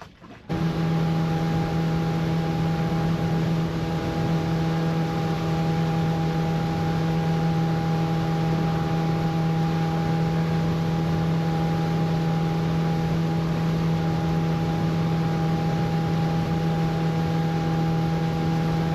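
Boat motor running at a steady speed, an even hum with a constant pitch under a wide rush of wind and water noise. It starts abruptly about half a second in and stays level throughout.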